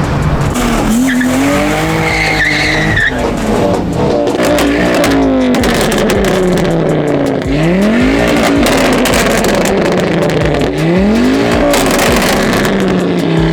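Car engines revving hard again and again, each rev rising and falling back, with a squeal of tyres about two seconds in.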